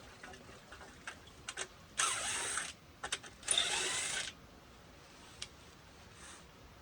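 Two short mechanical bursts from a tool being worked on the pool pump motor, each lasting well under a second, with small clicks and knocks before, between and after them.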